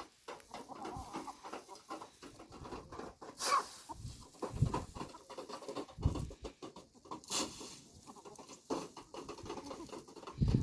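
Chickens clucking, with scattered knocks and a few low thumps.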